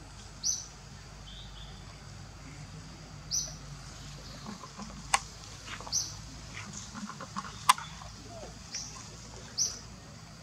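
Short high-pitched bird chirps repeating every two to three seconds over faint outdoor background noise, with two sharp clicks in the middle.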